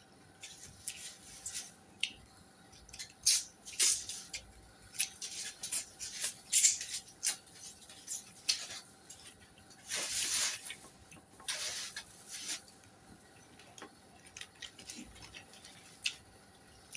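A person eating close to the microphone: irregular wet chewing and lip-smacking clicks, with a longer, louder burst about ten seconds in.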